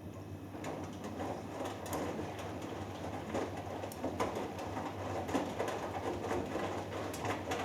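Hoover Dynamic Next front-loading washing machine tumbling a 3 kg cotton load during the wash: irregular water sloshing and clothes swishing in the drum over a steady motor hum, picking up about half a second in as the drum turns.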